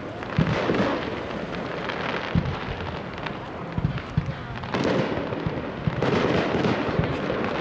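Aerial firework shells bursting overhead: several sharp deep thumps in the first half, then crackling bursts about five seconds in and again near the end.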